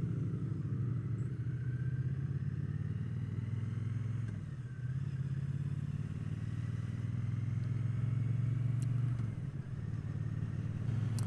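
Triumph Bonneville T120's 1200 cc parallel-twin engine running under way, heard from the rider's seat, a steady note that eases off briefly about four seconds in and again about nine seconds in.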